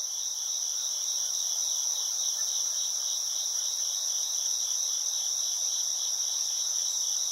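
Crickets chirping in a steady, high-pitched chorus with a fine repeating pulse.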